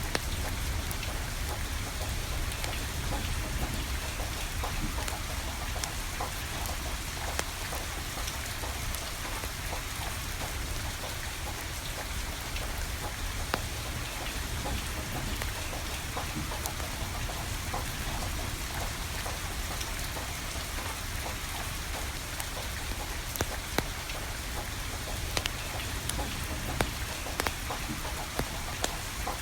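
Steady rain falling, with a wood fire crackling: sharp pops here and there, several more of them in the last few seconds.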